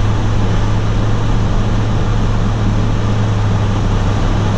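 Steady in-cab driving noise of a 2018 Toyota Tundra CrewMax pickup at about 22 mph in four-wheel drive high: even tyre and road noise with a constant low hum.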